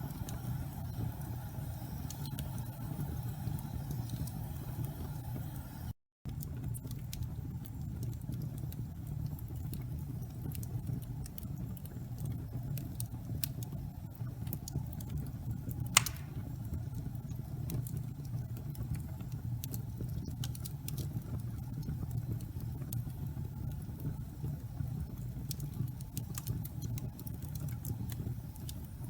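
Wood fire burning in a fireplace: a steady low rumble with scattered small crackles, and one sharp, louder pop about halfway through. The sound cuts out to silence for a moment about six seconds in.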